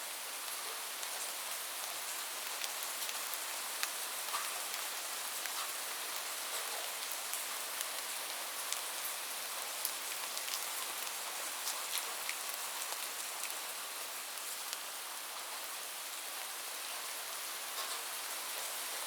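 Steady rain falling, an even hiss with individual drops ticking irregularly through it.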